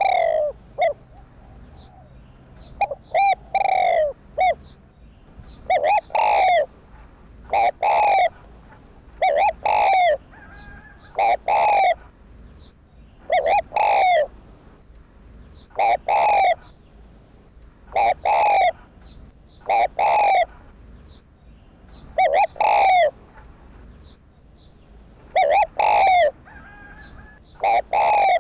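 Spotted dove cooing over and over: short phrases of a couple of quick notes and one longer coo, about one phrase every two seconds.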